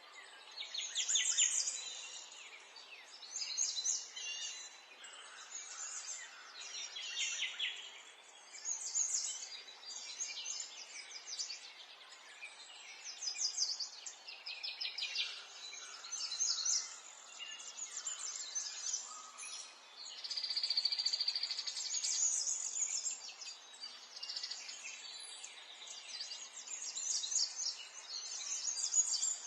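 Songbirds chirping and trilling, short phrases following each other with hardly a break, over a faint steady background hiss. One longer, even trill stands out about two-thirds of the way in.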